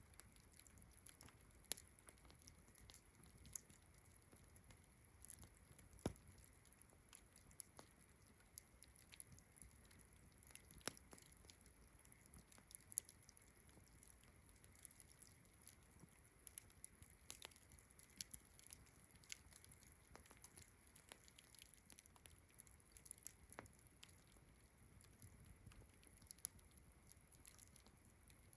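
Campfire crackling quietly, with irregular sharp pops and snaps of burning wood, a few much louder than the rest. Beneath it runs a steady high chirring of distant crickets.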